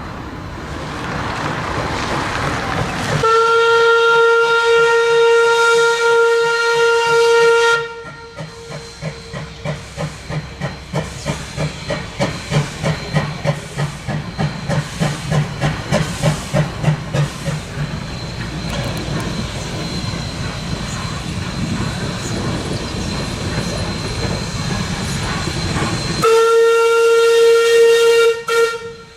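QR C17 class 4-8-0 steam locomotive blowing its chime whistle for about four and a half seconds, then working past with a steady, rhythmic exhaust beat of about two to three chuffs a second that swells and fades, with steam hiss and the carriages rolling; it whistles again, more briefly, near the end.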